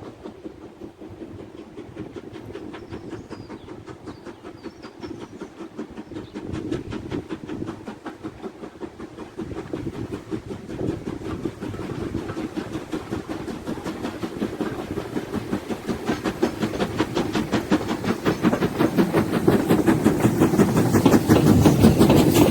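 A steam train, hauled by an LMS Black Five 4-6-0 locomotive, approaching with a fast, even, rhythmic clatter that grows steadily louder.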